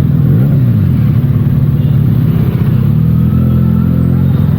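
Benelli TNT 300's parallel-twin engine running through its stock exhaust under way, the revs rising and falling a couple of times with the throttle.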